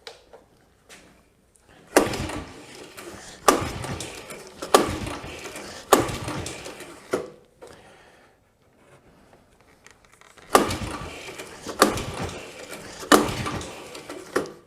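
Recoil pull starter on a Honda TRX90's 90cc engine being yanked over and over: about five pulls roughly a second and a half apart, a short pause, then three more. Each pull cranks the engine briefly and fades away without it catching, as the quad fails to start.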